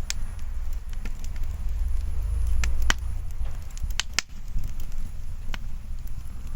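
Wood bonfire crackling, with scattered sharp pops, the loudest a close pair about four seconds in, over a steady low rumble.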